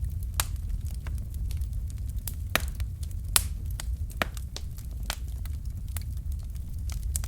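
Fireplace fire crackling: irregular sharp pops and snaps over a low, steady rumble, with a few louder snaps near the middle.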